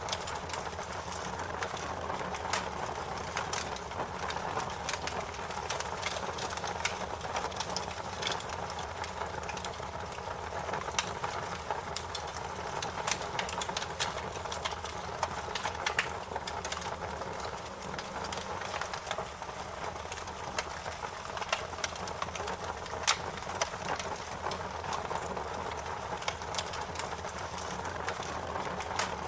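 Fire crackling: a steady hiss with many irregular sharp pops and snaps.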